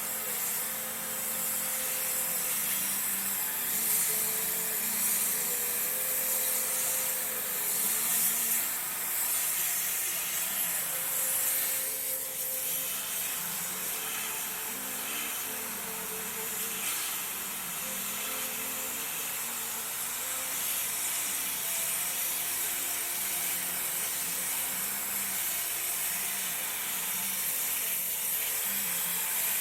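Steady high hiss of a spray washing air-conditioner fins, with a low wavering hum underneath.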